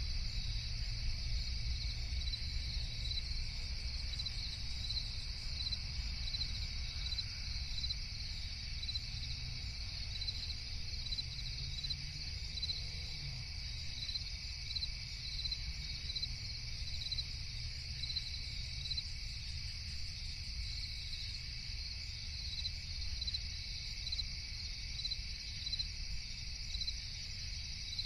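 Crickets chirping steadily in a regular, unbroken night chorus over a low steady rumble.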